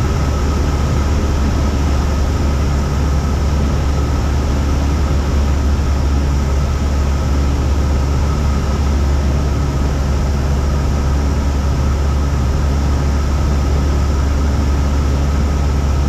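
Cessna 172's piston engine and propeller droning steadily, heard inside the cabin, as the plane flies its approach with flaps 10 set.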